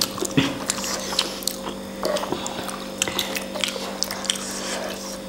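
Close-up wet chewing of noodle soup, with many short smacking clicks from the mouth, over a steady low hum.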